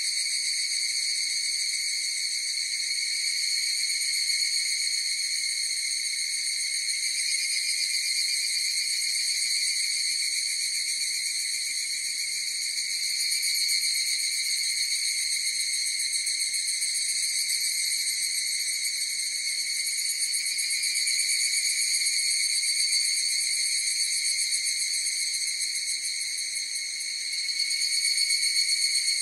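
A chorus of higurashi (evening cicadas, Tanna japonensis) calling together, a continuous high ringing trill that dips slightly a few seconds before the end and then swells again.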